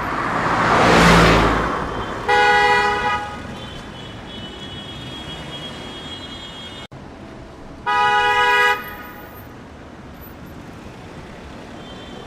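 A loud rushing whoosh swells and fades in the first two seconds, then a vehicle horn sounds twice, each a short honk of under a second, about five seconds apart.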